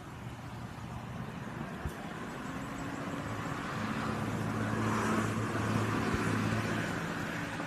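Road traffic: a motor vehicle's engine hum grows louder toward the middle and then fades, as a vehicle passes by.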